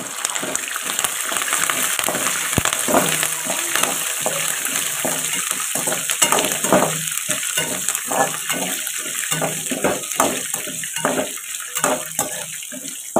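Tempering of peanuts, chana dal and curry leaves sizzling in hot oil in a metal kadai, with a slotted metal spoon stirring and scraping them around the pan in repeated strokes.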